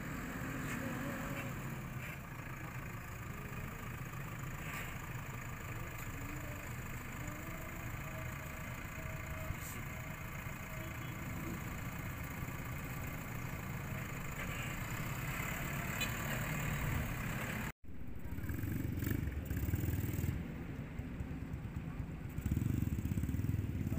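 JCB backhoe loader's diesel engine running steadily. Just before three-quarters of the way through the sound drops out for a moment at a cut, and after it the engine is louder and more uneven.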